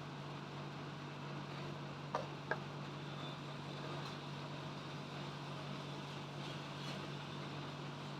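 A steady low hum, with two short clicks about two seconds in.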